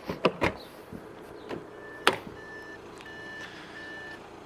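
A few sharp clicks and knocks, then, from a little under two seconds in, a series of short electronic beeps at one steady pitch from the Audi A6's warning beeper.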